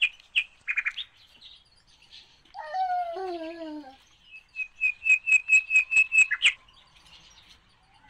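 Caged aviary birds chirping: scattered short high chirps, a lower falling call about three seconds in, then a fast run of repeated high chirps, about five a second, a little after the five-second mark.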